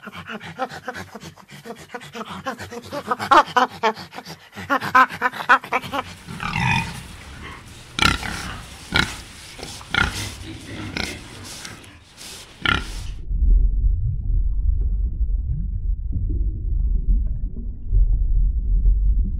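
A run of three animal clips: macaques calling in quick repeated cries for the first few seconds, then a warthog giving short sharp grunts about once a second, then from about two-thirds through a steady low rumble of water in a reef aquarium.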